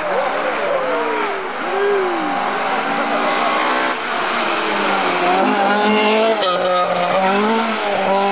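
Rally car engine working hard, its revs rising and dropping again and again with gear changes, then pulling steadily higher. A short burst of sharp cracks comes about six seconds in.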